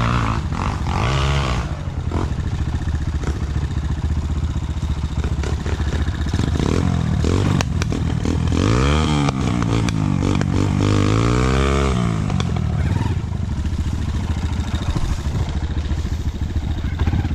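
Motorcycle engine running and revving, its pitch rising and falling several times, most strongly in the second half, with some clatter.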